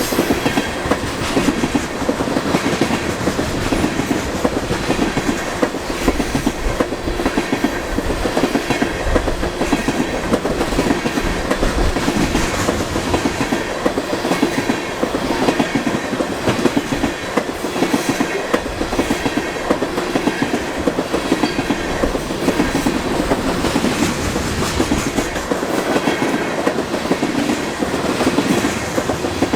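A long string of empty tank cars of a freight oil train rolling past at track speed, about 40 mph: a steady, close clatter of steel wheels on the rails with no let-up.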